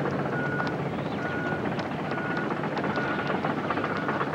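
Steady outdoor rumble, with a short faint beep repeating about once a second.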